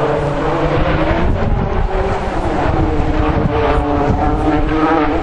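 Distant rally car engine revving, its note falling and then climbing again through gear changes, over a steady low rumble.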